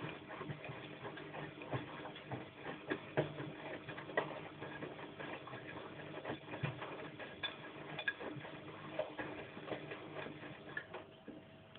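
Bosch washing machine in its wash cycle: the drum turning the laundry, with many irregular clicks and knocks over a steady motor hum. The clicking dies down and the sound drops about eleven seconds in, as the drum stops in its turn-and-pause wash rhythm.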